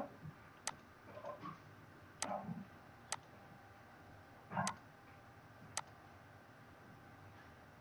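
Computer mouse clicks: about five sharp single clicks spaced a second or so apart, with a few softer knocks between them, over a faint steady hiss.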